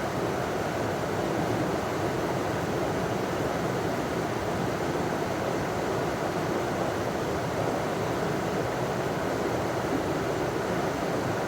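River water running over a small waterfall: a steady rushing that holds even throughout.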